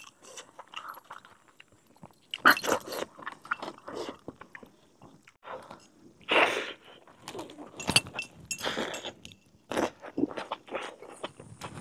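A person eating a cooked mutton leg piece: irregular bites, chewing and crunching on meat and bone.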